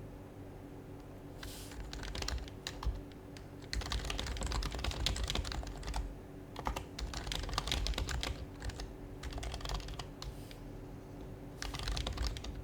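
Typing on an HHKB Professional HYBRID Type-S keyboard, its quiet Topre keys clacking in quick runs of keystrokes with short pauses between bursts.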